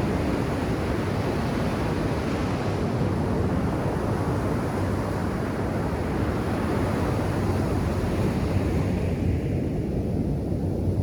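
Ocean surf breaking and washing up a sandy beach, a steady low rush of water. The higher hiss of the wash fades away about nine seconds in.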